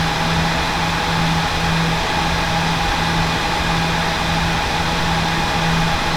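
Home server's cooling fans running steadily: a loud, even rush of air with a steady low hum and a fainter higher tone.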